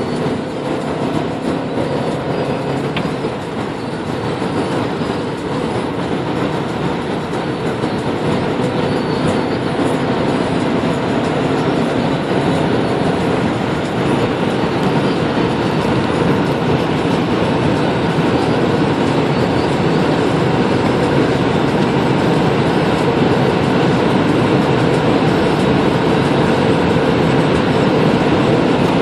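Ford S-Max's remapped 2.2 TDCi four-cylinder diesel under full-throttle acceleration, a steady drone blended with road and wind noise that grows louder as speed climbs toward 240 km/h. There is a brief dip in level about four seconds in.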